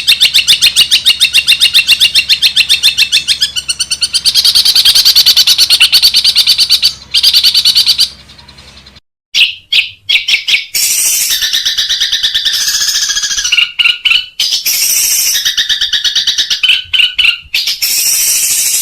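Long-tailed shrike (cendet) chattering: a fast run of repeated high notes for about seven seconds, then after a short break about eight seconds in, longer harsh phrases with brief pauses.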